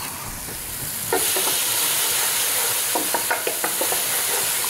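Tomatoes and garlic frying in a hot pan, sizzling steadily while a spoon stirs and scrapes them. The sizzle gets louder about a second in.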